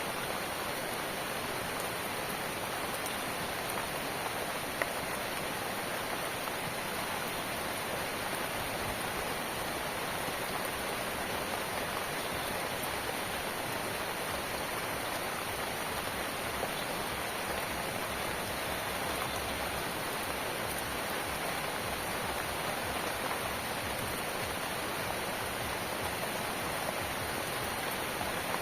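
Steady rain falling, an even hiss of many drops with no let-up. A single faint click sounds about five seconds in.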